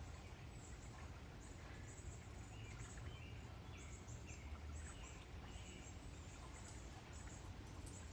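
Faint birds chirping, many short high calls scattered throughout, over a steady low background rumble.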